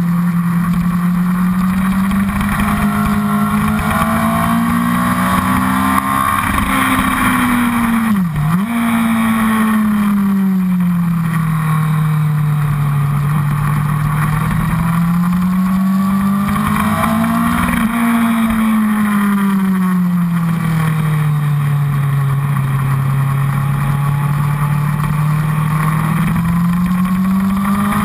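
Honda CBR1000RR's inline-four engine pulling the bike round a race track, heard from the fuel tank. Its pitch rises and falls slowly several times, with one sharp dip and recovery about eight seconds in, over a steady rush of wind noise.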